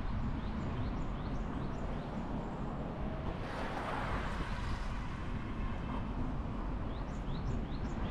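A bird calling in series of short rising chirps, about three a second, near the start and again near the end, over a steady low outdoor rumble. A brief rush of noise swells and fades about four seconds in.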